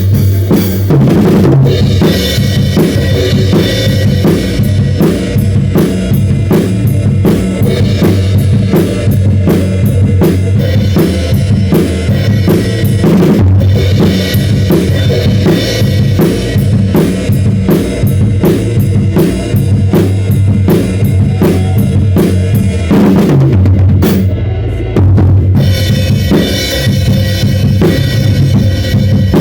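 Drum kit played along with a full-band worship song: a steady bass drum and snare beat over a bass line, with crash cymbal hits. The cymbals and highs drop out briefly near the end before the full groove returns.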